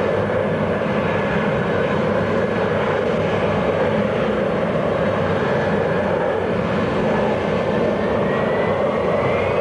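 Aircraft engine noise, steady, with a whine that begins to rise in pitch near the end.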